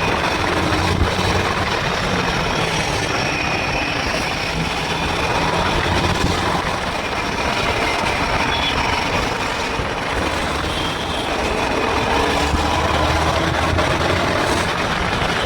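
Motorcycle engine running steadily under a constant rushing noise, its low hum swelling a little now and then.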